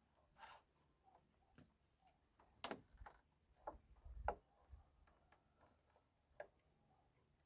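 Faint, irregular knocks and clicks, about seven in all, the loudest a little past the middle.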